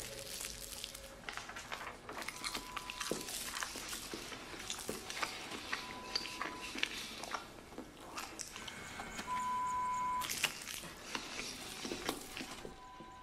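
Quiet scattered crackles and small clicks, with a short steady electronic beep every few seconds; the longest and loudest beep comes about ten seconds in.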